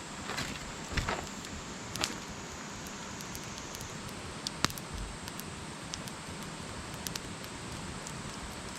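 Wood campfire burning with a steady hiss, broken by scattered sharp crackles and pops; the loudest pop comes a little past halfway through.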